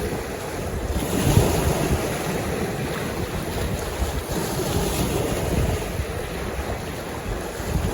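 Waves washing on a lakeshore, a steady rushing noise, with wind buffeting the microphone in irregular low gusts.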